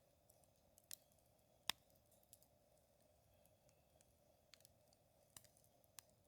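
Wood fire crackling quietly: a handful of sharp, irregular pops and snaps, the loudest a little under two seconds in.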